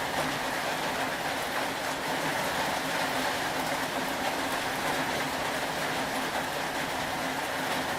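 Steady rain falling, an even continuous hiss with faint scattered ticks and a low steady hum beneath.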